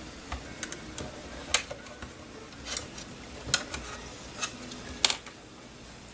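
Light, irregular clicks and taps, about eight of them, as a plastic probe works small cable connectors inside a drone's body.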